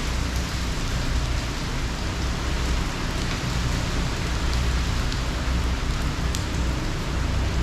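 Heavy hurricane rain pouring steadily, with a low rumble underneath.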